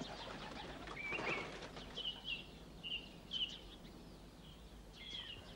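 Wild birds calling faintly: a string of short, high chirps, one or two a second, over a light outdoor hush.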